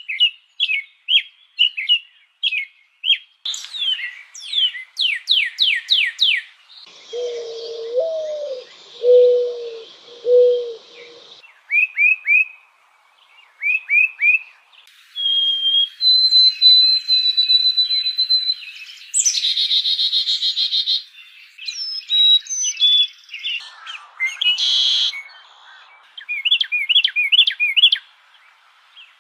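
Various birds calling and singing in a string of short, differing segments: quick repeated chirps, fast downward-sweeping whistles, steady whistled notes and trills, with a lower repeated call in one stretch.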